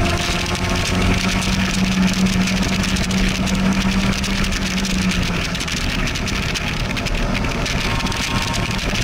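Open-top car's engine pulling at track speed with wind rushing past. The engine note holds steady for several seconds, then drops away a little past halfway as the car slows from about 110 km/h for a corner.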